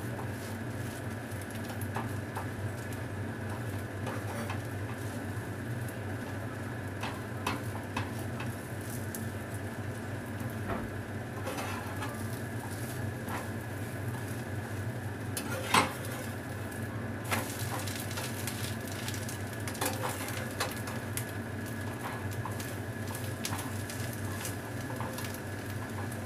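An egg-coated paratha sizzling steadily as it fries in a flat pan, with a metal spatula now and then scraping and tapping the pan; one louder clack comes about 16 seconds in.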